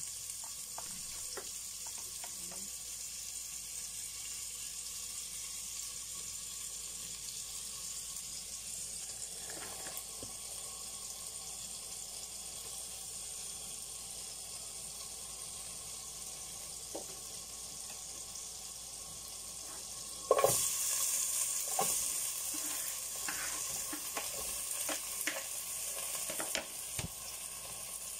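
Butter frying in a pot on a gas stove, a steady sizzle that gets suddenly louder about 20 seconds in as sliced onions go into the hot butter, with a few knocks of a utensil against the pot after.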